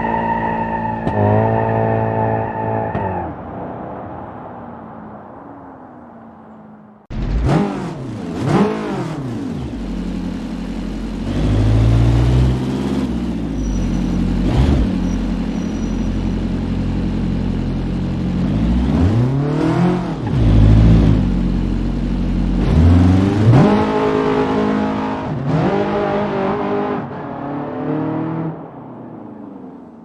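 Car engines: first a steady engine note that fades as the car moves off, then, after an abrupt cut about seven seconds in, louder engines revving again and again, each rev climbing and falling in pitch, as cars pull away one after another.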